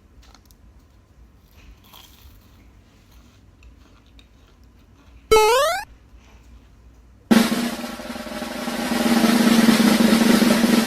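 A short rising whistle-like sweep, then a snare drum roll that builds louder for about three and a half seconds and cuts off sharply: an editing sound effect.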